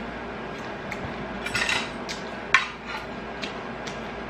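Eating utensils clicking and scraping against dishware: a scrape about a second and a half in, then one loud sharp clink.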